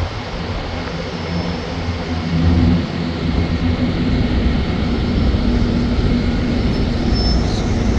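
Steady low rumble of a heavy vehicle's engine running, a little louder about two and a half seconds in, over street traffic noise.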